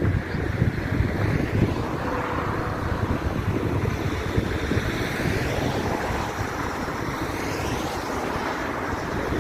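Wind buffeting the microphone over a steady background rumble, with faint sweeping high tones partway through.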